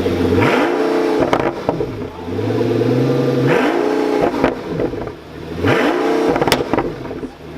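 Pagani Huayra's twin-turbo V12 revved three times. Each rev climbs and falls back, with sharp pops and crackles from the exhaust on the overrun between revs.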